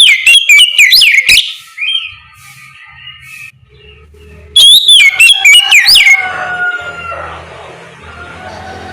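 Oriental magpie-robin (kacer) in full, open song ('ngeplong'): loud, clear whistled phrases of quick rising and falling notes. The song comes in two bursts, one at the start and another about four and a half seconds in, with softer notes between. This is song used as a lure (pancingan) to prompt other magpie-robins to answer.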